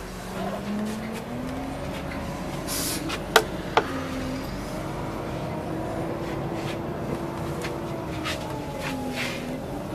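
Scania OmniLink CL94UB city bus heard from inside the passenger cabin, moving. The engine note rises over the first second or so, then holds steady and dips slightly near the end. Two sharp clicks about three and a half seconds in are the loudest sounds.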